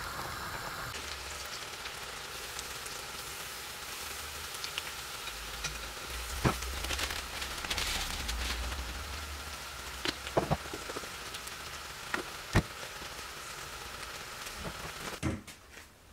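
Duck meat frying in hot oil in a karahi: a steady sizzle, broken by a few sharp knocks. The sizzling drops away near the end.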